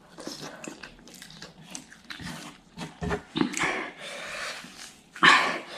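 A person chewing ghost pepper noodles close to the microphone: many short mouth clicks and smacks, with a louder burst near the end.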